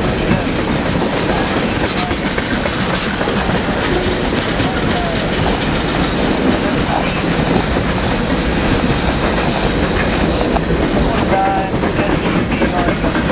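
Freight train rolling steadily past: the rumble of refrigerated boxcars and boxcars, their steel wheels clicking over the rail joints.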